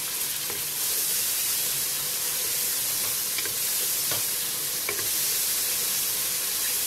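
Ginger-garlic paste and lightly browned onions sizzling in hot oil in an aluminium pressure cooker, stirred with a wooden spoon. A few light scrapes of the spoon on the pot come through the steady sizzle.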